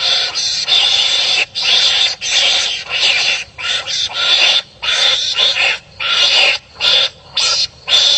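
Animals fighting and calling at each other with harsh, raspy cries that come in quick bursts broken by short pauses.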